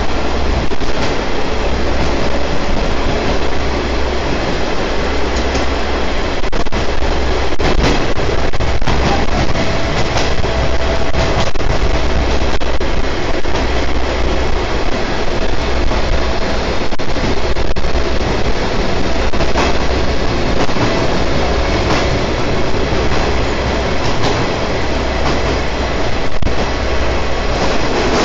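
Trolley train running along the track, heard from on board: a steady loud rumble of wheels on rail with a pulsing low drone and scattered clicks from the rail joints.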